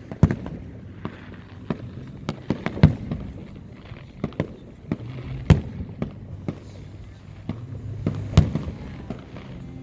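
Fireworks going off: an irregular string of sharp bangs and pops, loudest about three seconds in and again past eight seconds, over a steady low hum.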